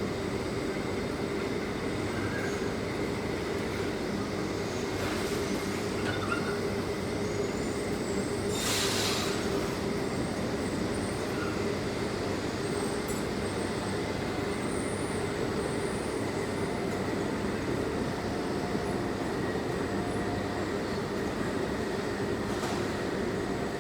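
Induction furnace meltshop noise while molten steel is tapped: a steady, heavy industrial drone with a constant hum running through it, and a short hiss about nine seconds in.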